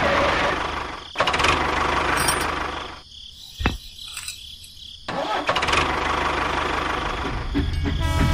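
Tractor engine running steadily, dropping away for about two seconds midway. In that gap a single sharp click sounds as a metal pin is pushed into the trolley's hitch. The engine sound then resumes.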